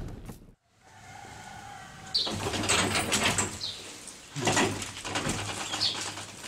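Small birds chirping: a few short, high, falling calls one to two seconds apart, over scattered knocks and clicks.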